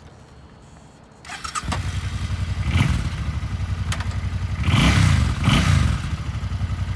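Suzuki Boulevard M50's 805cc liquid-cooled V-twin starting: a brief crank about a second in, then it catches and idles with an even pulsing beat. It gets a short blip of the throttle and then two quick revs that rise and fall, before settling back to idle.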